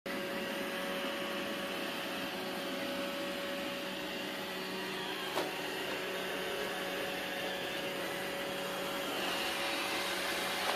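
Roomba robot vacuum running: a steady whirring hum with a constant mid-pitched tone. A single sharp knock comes about halfway through.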